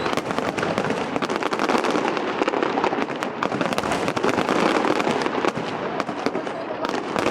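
Dense, continuous crackling: many sharp pops and clicks close together over a steady hiss.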